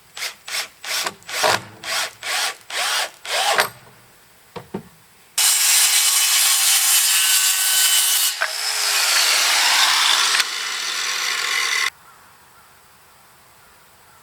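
Wood being sawn: about nine quick back-and-forth hand-saw strokes, then a power saw cutting through wood for about six seconds. Its motor pitch drops as it bogs down under the load, before the saw stops abruptly.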